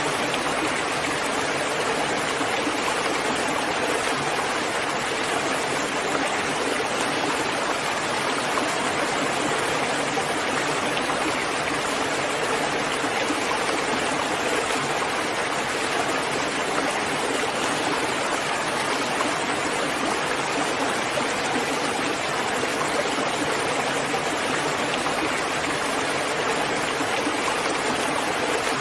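Steady, heavy rain falling, an even dense hiss with no thunder and no separate drops standing out.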